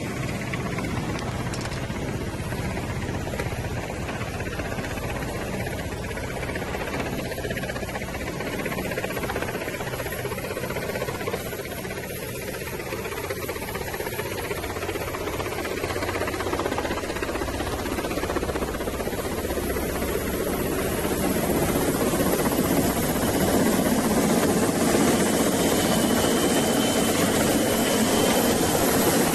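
A powered vehicle's engine running steadily, growing louder over the last third, with a thin high whine joining near the end.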